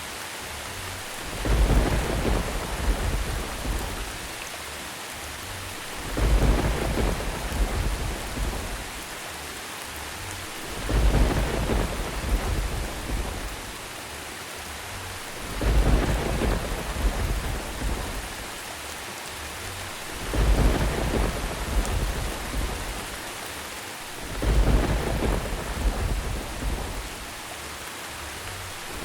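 Steady rain with thunder rumbling in low swells about every four and a half seconds, six times over.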